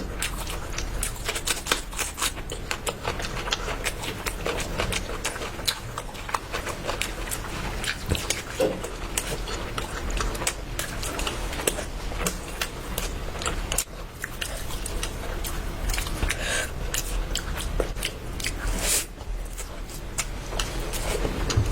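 Close-up eating sounds: dense, irregular clicks and crackles of biting and chewing food.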